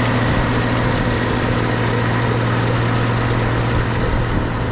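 Small vehicle engine running steadily at a constant speed with a low, even hum, working in the snow.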